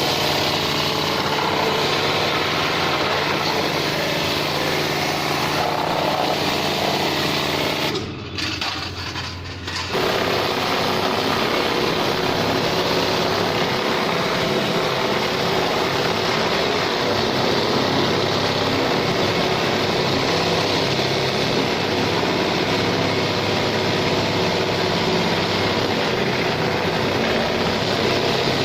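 A car-wash machine's motor running steadily with a hiss. It dips quieter for about two seconds around eight seconds in, then picks up again.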